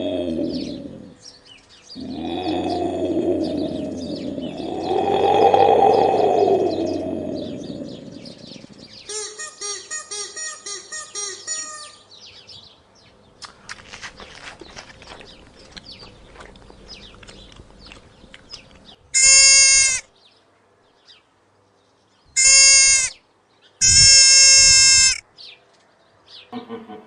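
Sheep bleating several times: a long, low baa, then a quavering bleat, and later three short, high-pitched bleats.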